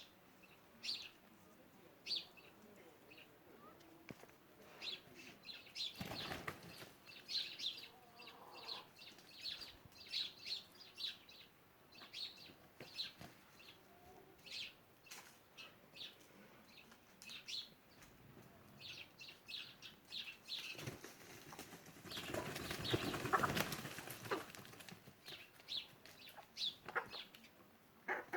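Chickens at their coop: short high chirps repeating throughout, with a brief burst of wing flapping about six seconds in and a louder, longer one from about 21 to 24 seconds in.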